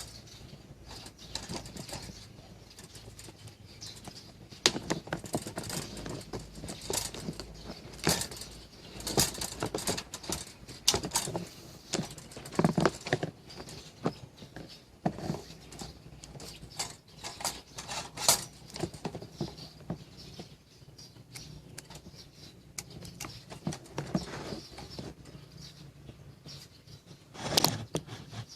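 Irregular clicks, taps and rattles of hands handling and working on the parts of a pop-up toaster, with a louder clatter near the end.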